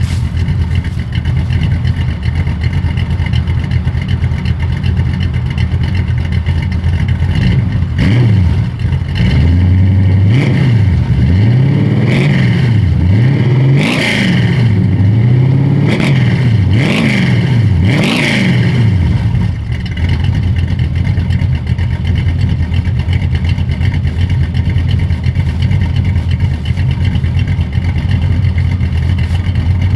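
Cammed 350 small-block Chevy V8 breathing through knockoff Flowmaster 10-series mufflers: it idles steadily, is blipped through several quick revs from about eight seconds in until about nineteen seconds, then settles back to idle.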